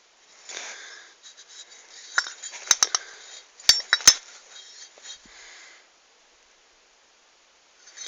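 Metal clinking and tapping from handling tools or parts, with a cluster of sharp clicks about two to four seconds in amid rustling; the sound stops for the last two seconds.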